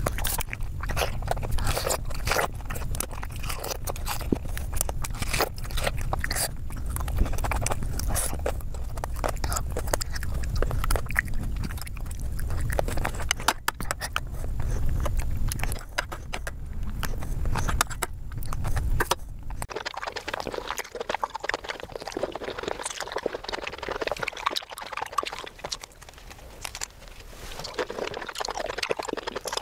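Close-miked eating sounds: wet chewing and mouth clicks from spoonfuls of soft fruit in custard, with the spoon scraping and clicking in a glass bowl over a low rumble. About twenty seconds in the rumble stops abruptly and the sound turns to crisper, lighter bites and chewing of fresh fruit.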